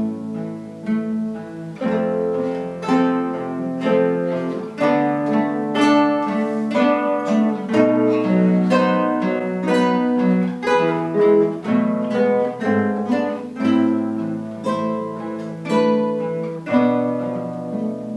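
A guitar ensemble playing an instrumental piece on acoustic guitars: a melody of plucked notes over lower bass notes.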